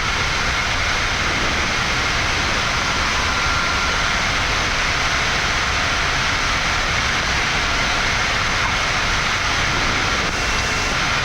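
Steady rushing noise inside a Boeing 787-9 flight deck in the climb just after takeoff, from airflow and the engines, even in level.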